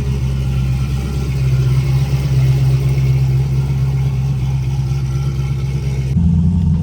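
Third-gen Camaro's turbocharged LS V8 idling steadily while warming up. About six seconds in, the sound changes abruptly to a deeper, fuller engine note.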